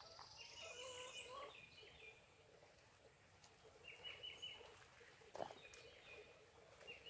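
Faint, distant bird calls: a short rapid pulsed call about half a second in, another around four seconds and a third near the end, with a single soft knock between them.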